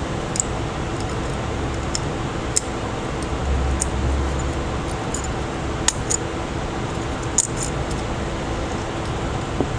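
A steady mechanical hum and hiss with a faint constant tone, with a few light clicks and taps now and then and a brief low swell about four seconds in.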